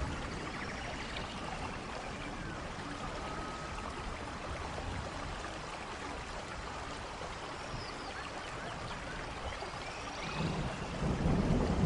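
Waterfall water rushing steadily, with a few faint high chirps now and then. A low rumble like thunder builds near the end.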